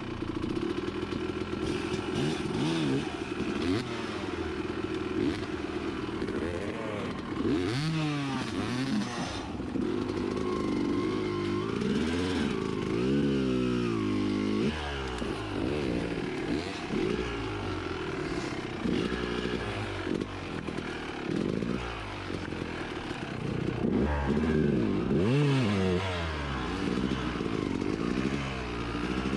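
Motorcycle engine being ridden hard, its revs rising and falling over and over as the throttle is worked.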